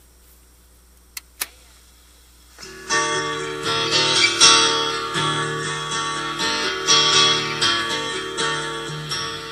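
Two faint clicks, then guitar chords strummed in a steady rhythm begin about two and a half seconds in: the intro of a song.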